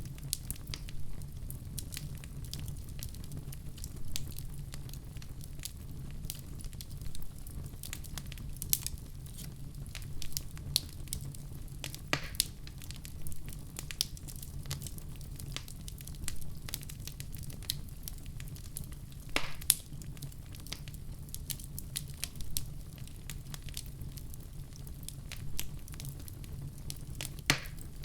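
Wood fire crackling in a fireplace: a steady low rumble of burning with many small crackles and a few louder, sharper pops scattered through.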